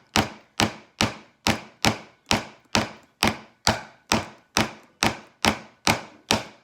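Hammer driving a nail into a wooden kit piece: a steady run of sharp blows, about two and a half a second.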